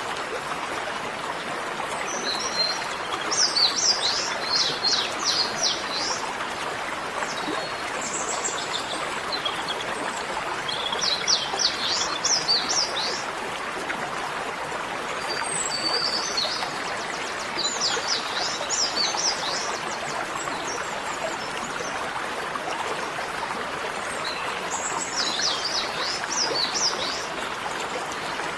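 A small songbird singing bouts of quick, high, falling chirps every few seconds over a steady rush of running water.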